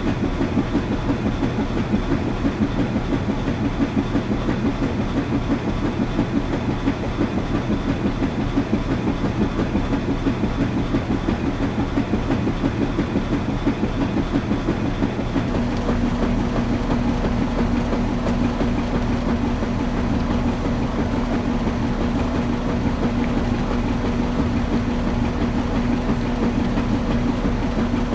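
Washing machine running, with a rapid rhythmic churning. About halfway through, a steady motor hum joins in and the rhythm evens out.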